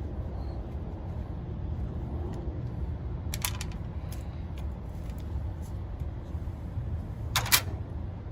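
A steady low rumble with two sharp double clicks, one midway and one near the end, from handling the new condenser fan motor and its parts.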